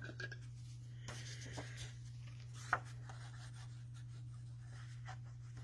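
Faint handling of cardstock and patterned paper being layered onto a card: light rubbing and small taps, with one sharper click near the middle, over a steady low hum.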